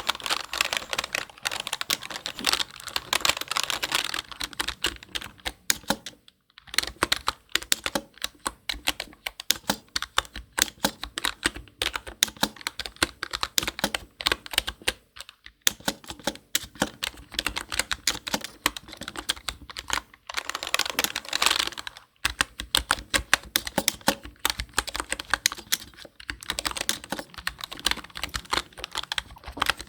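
Rapid typing on a computer keyboard: a dense run of key clicks with brief pauses about a fifth, half and three-quarters of the way through.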